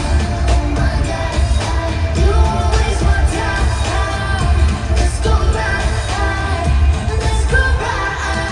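Live pop concert music: a woman's lead vocal over a heavy, pulsing bass beat.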